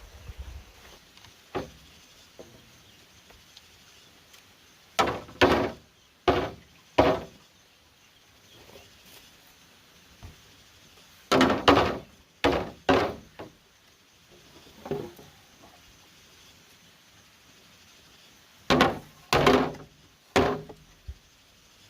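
Bamboo being struck with a hand tool: hard, woody blows in three bursts of four or five strokes, with pauses between them.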